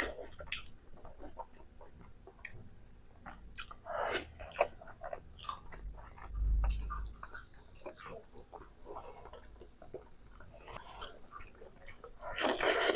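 Close-miked mouth sounds of a person chewing and biting Naga-style pork: wet clicks and smacks, with louder bites about four seconds in and near the end. There is a low bump about six and a half seconds in.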